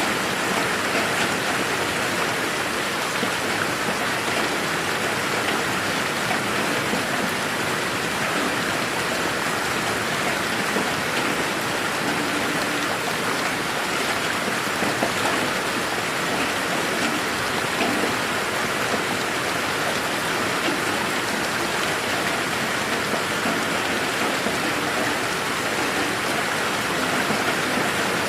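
Steady rain falling in a garden, an even dense hiss with fine scattered drop patter.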